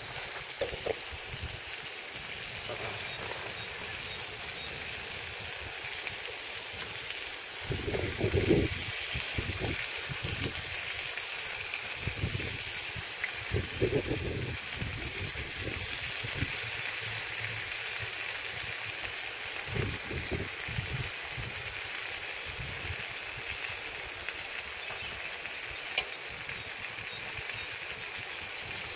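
Peppercorn steaks sizzling steadily in a frying pan, with a few knocks of handling about eight, fourteen and twenty seconds in and a sharp click near the end.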